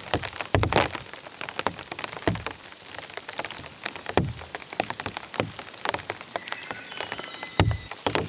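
Heavy rain, with large drops landing irregularly as sharp hits, some of them with low thuds.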